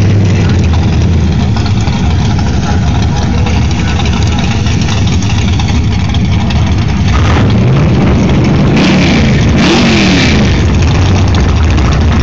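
Drag car's engine idling loudly at the starting line, then revved up and back down twice in quick succession about eight to ten seconds in.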